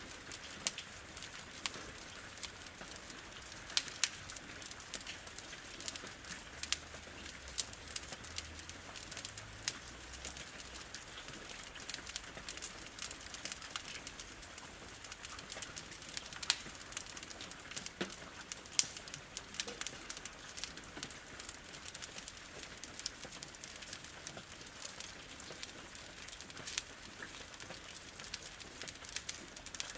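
Wood fire crackling, with frequent irregular sharp pops, over steady rain.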